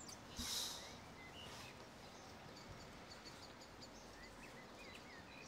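Faint room ambience with small birds chirping now and then in the background, and a brief soft rustle about half a second in.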